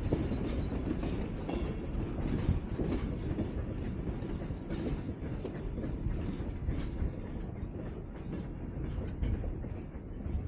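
Nevada Northern Railway steam train's passenger cars and caboose rolling away along the track: a steady low rumble with the wheels clicking over the rail joints, easing off slightly near the end.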